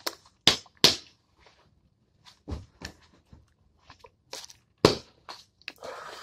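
Close-up chewing: irregular wet smacks and crunches of a mouthful of food being chewed, with short quiet gaps between.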